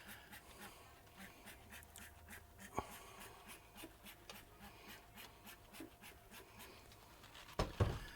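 Trigger spray bottle of degreaser squirted again and again, a run of faint short hisses. A sharp click comes a little under three seconds in, and a louder knock near the end.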